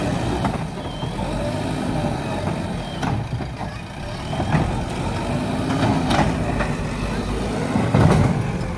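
JCB backhoe loader's diesel engine working under load, its revs rising and falling, with a few sharp knocks and the loudest burst near the end.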